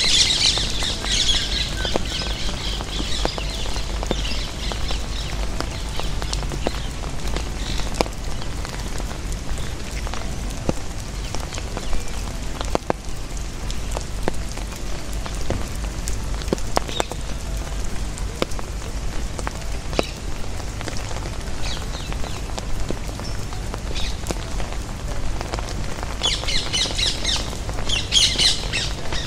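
Steady rain with individual drops pattering in scattered sharp taps. Birds chirp in a burst at the start and again near the end.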